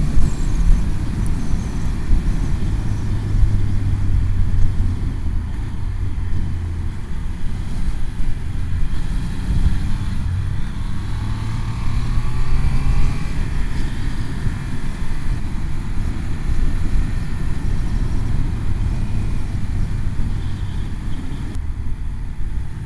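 Motorcycle being ridden at speed along a twisty road, its engine note rising and falling, buried under heavy wind rumble on the rider's microphone.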